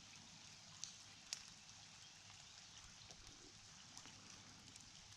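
Light rain falling: a faint, even hiss with a few soft drop taps, two of them a little louder about a second in.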